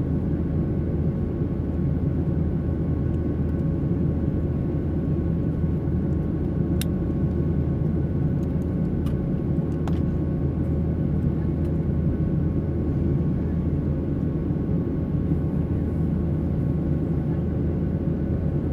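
Boeing 737-800 in flight after take-off, heard from inside the cabin: the steady drone of its CFM56 jet engines and the rush of air, with a few steady tones running through it and a few faint clicks about seven to ten seconds in.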